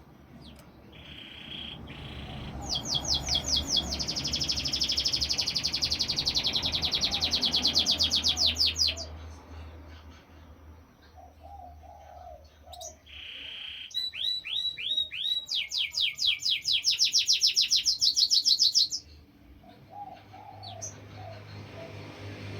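Canary singing: two long song phrases of fast, high, repeated trills, each opening with a short steady whistle, with a quieter pause between them. Faint low cooing sits underneath.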